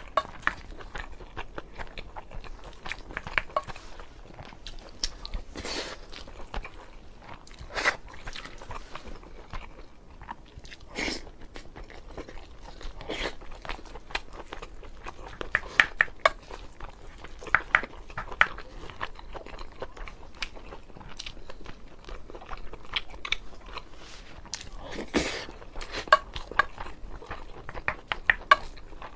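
Close-up eating sounds: a person chewing and biting mouthfuls of braised pork belly over rice, with irregular wet clicks and smacks.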